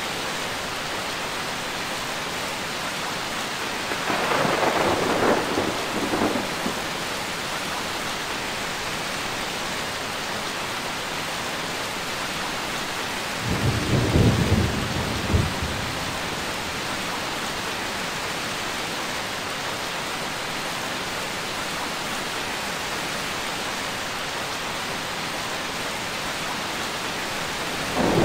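Steady heavy rain falling, with rolls of thunder rumbling over it twice, about four seconds in and again about halfway through.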